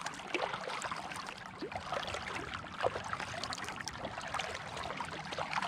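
Water trickling and dripping around a kayak, with many small drips and light clicks over a steady low wash.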